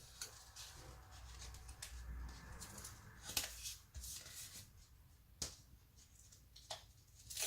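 Faint rustling of paper card being handled, with a few light clicks and taps spread through.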